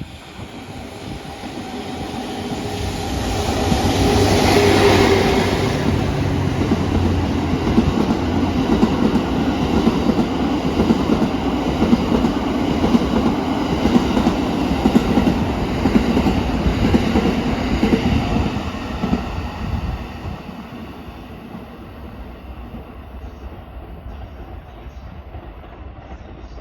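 A train passing by: the rail noise builds over the first few seconds, stays loud with repeated knocks of wheels over rail joints, then drops off sharply about twenty seconds in to a lower rumble.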